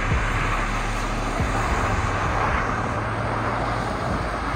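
A motor vehicle engine running steadily at low revs, a continuous low hum under some general noise.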